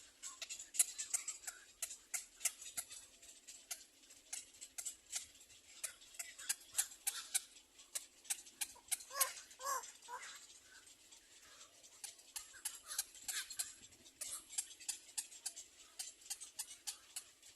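Birds at a nest making quick, irregular clicking ticks, with a short call about nine seconds in.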